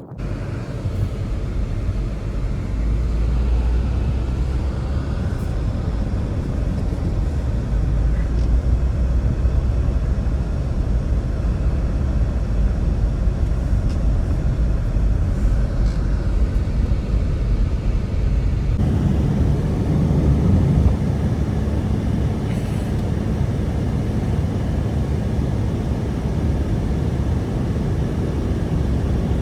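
Strong blizzard wind: a steady low rumble of gusting wind. Its sound changes abruptly about two-thirds of the way through.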